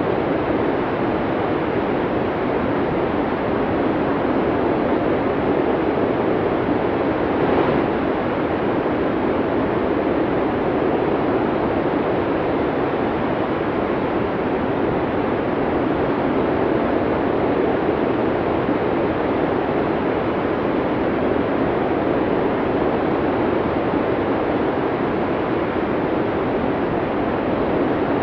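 Strong wind of a heavy snowstorm blowing without a break, a steady rushing noise.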